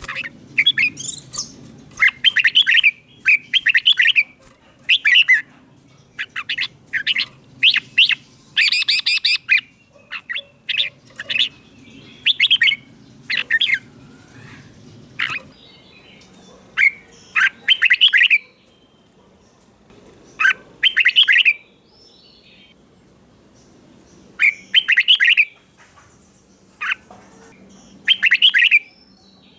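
Red-whiskered bulbul singing short phrases of quick chirping notes, one after another with brief pauses, with longer gaps around two-thirds of the way through.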